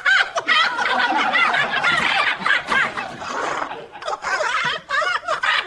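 Long, high-pitched laughter, breaking off briefly a few times.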